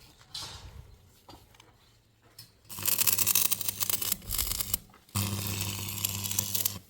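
Handheld electric power tool run in two bursts of about two seconds each, a loud hiss over a low motor hum, stopping briefly in between.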